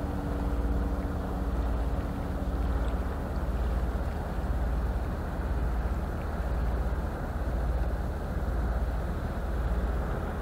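Diesel engine of a passing Rhine inland cargo or tanker ship: a steady low rumble that swells and fades about once a second. A faint hum dies away about three seconds in.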